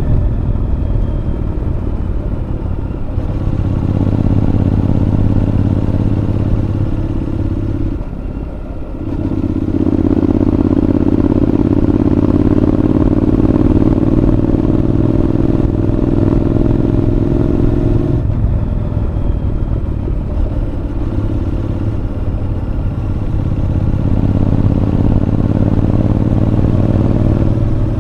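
Honda NC750X parallel-twin engine through a Moriwaki aftermarket muffler, running under way on a winding road. The exhaust note drops briefly about eight seconds in as the throttle comes off, then comes back louder with its pitch slowly rising. It eases off again a little past the middle and builds once more near the end.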